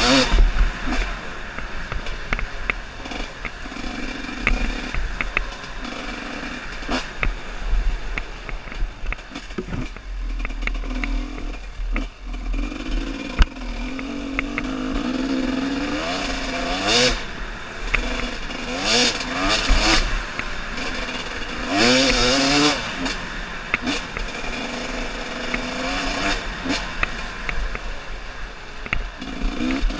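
Off-road trail motorcycle engine running under load, revving up and easing off several times in rising and falling surges.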